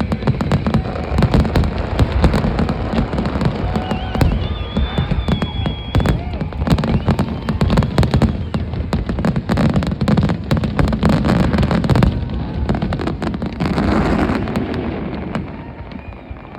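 Fireworks display: a dense, continuous barrage of bangs and crackling that dies away near the end.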